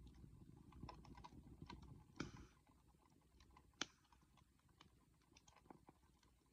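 Wood campfire crackling faintly: scattered small pops, a louder pop about two seconds in and a sharp snap about four seconds in, over a low rush of flame that dies down after the louder pop.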